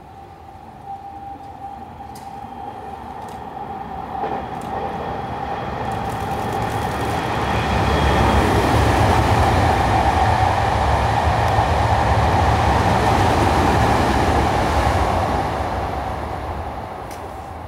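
Hankyu electric commuter train running along the station platform. It grows louder over about eight seconds, stays loud for several seconds, then eases off near the end, with a steady high tone underneath throughout.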